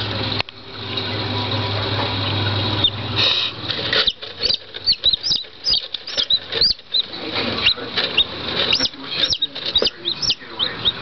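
Newly hatched chicks peeping: many short high chirps in quick succession starting about four seconds in, mixed with light tapping and scuffling. Before that only a steady hiss and low hum.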